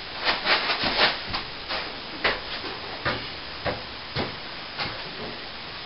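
Trowel scraping and spreading corner cement (cornice cement) over a plasterboard ceiling patch: a run of short scraping strokes, quick at first and then about one every half second, over a steady hiss.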